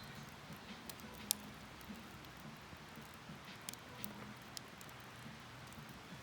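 Wood fire crackling, with scattered sharp pops, one louder about a second in.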